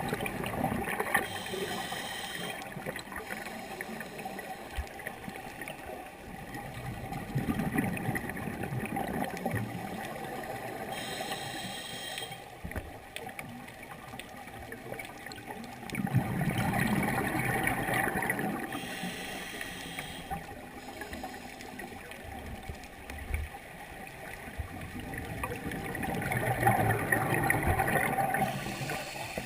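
Scuba diver breathing through a regulator underwater. Each breath is a short hiss as the regulator feeds air, followed a few seconds later by a longer rush of exhaled bubbles, repeating about every eight to nine seconds, three times.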